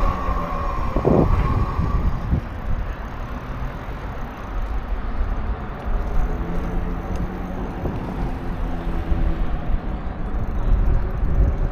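A motor vehicle passing, its engine note falling as it goes by and fading about two seconds in. Under it runs a steady low rumble of wind and road noise, with a short thump about a second in.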